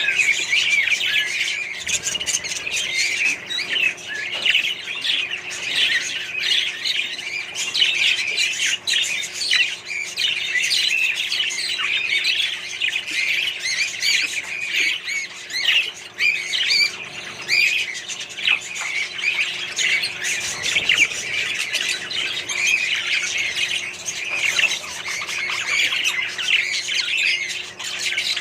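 A flock of budgerigars and other parrots chattering and squawking together: a dense, unbroken din of many short, overlapping calls.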